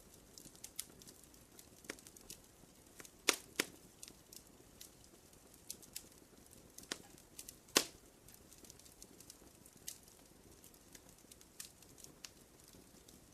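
Wood campfire crackling: scattered sharp pops and snaps over a faint steady hiss, with a pair of louder pops about a quarter of the way in and the loudest pop a little past halfway.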